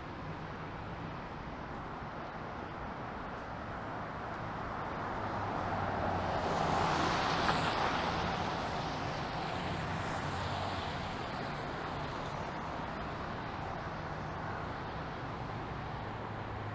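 City street traffic: a steady low engine hum, with a vehicle passing that swells to a peak about seven seconds in and fades away.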